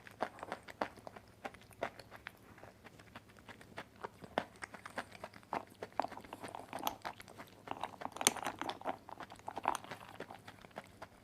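Close-up chewing of dry white clay: irregular sharp crunches several times a second, denser and louder in the second half.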